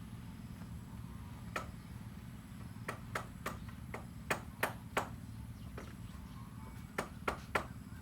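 A series of sharp knocks, about eleven, in uneven groups of two or three, over a steady low hum.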